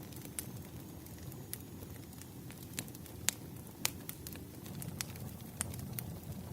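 Bonfire crackling: a steady low rush of burning wood with scattered sharp pops, two louder snaps a little past the middle.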